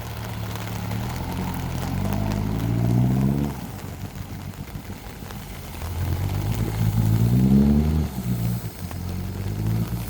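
Mahindra Roxor's 2.5-litre turbodiesel engine running and building revs twice, the pitch climbing each time and then dropping off sharply.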